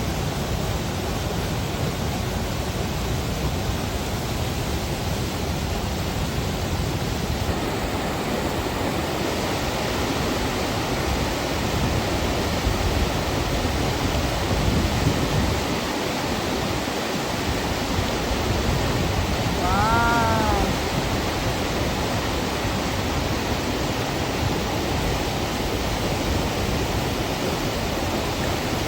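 Steady, loud rush of river water pouring over rapids and falls. About two-thirds of the way through there is one short pitched call that rises and falls.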